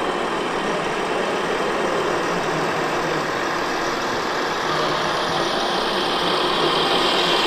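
Idling truck-engine sound from a radio-controlled scale truck's sound module, running steadily.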